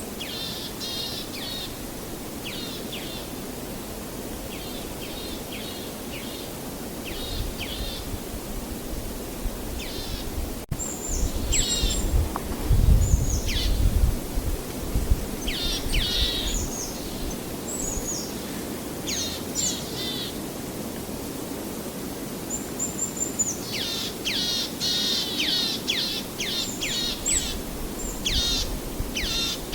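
Songbirds calling in quick series of short, sweeping chirps over a steady wash of background noise. A louder low rumbling surge comes in about eleven seconds in and fades by fifteen seconds.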